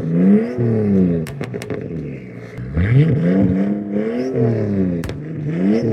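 A car engine being revved repeatedly, the revs climbing and falling about four times, with a few sharp pops about a second in and again near the end.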